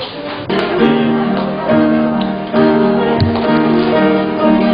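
Church worship band playing an instrumental introduction to a praise song: sustained chords, changing about once a second.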